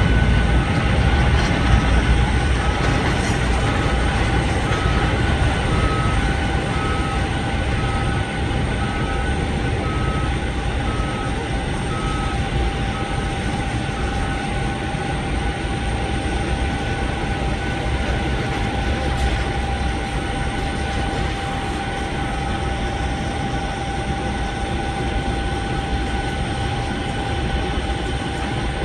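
Boeing 737 jet engines running with a steady whine over a low rumble. A short electronic beep repeats about once a second for roughly the first half, then once more later on.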